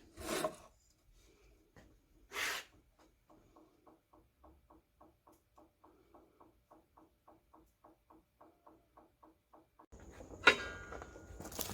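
A few brief handling sounds, then a faint, even ticking about four times a second; about ten seconds in, a power drill motor starts with a high whine and a sharp click.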